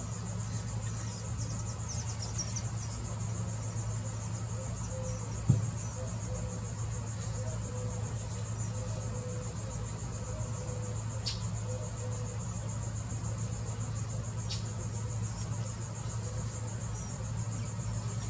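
Insects trilling steadily in a high-pitched, fast-pulsing chorus, over a low steady hum. A single sharp thump about five and a half seconds in, and two brief faint ticks later on.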